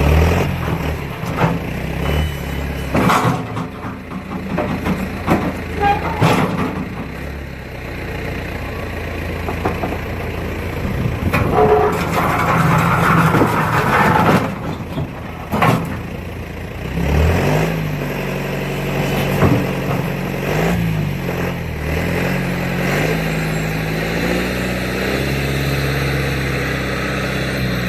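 An engine running, its pitch rising and falling, with repeated loud bangs and crashes over it in the first half.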